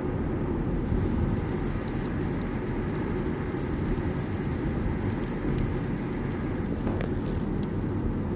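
Steady road and engine rumble inside the cabin of a moving car, with a few faint ticks.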